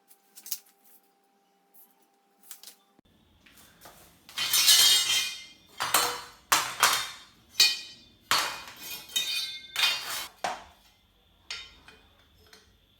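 Metal tools and parts clinking and clattering in a quick run of sharp knocks, loudest about a third of the way in.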